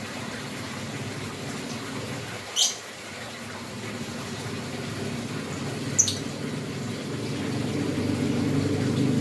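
Lovebird giving two short, sharp high-pitched chirps, one about two and a half seconds in and another about six seconds in, over a steady low rumble that grows louder toward the end.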